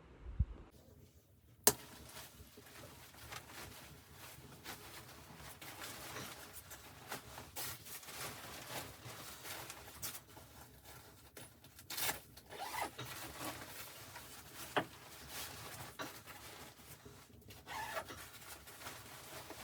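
Close handling sounds: rubbing and rustling with scattered clicks, and one sharp, loud click just under two seconds in.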